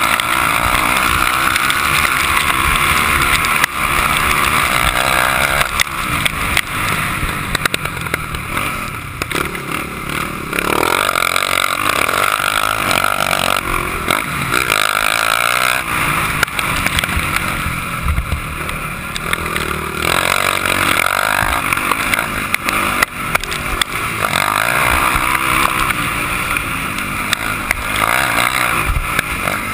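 Motocross motorcycle engine revving up and down with the throttle as it rides the track, the pitch and loudness rising and falling every few seconds.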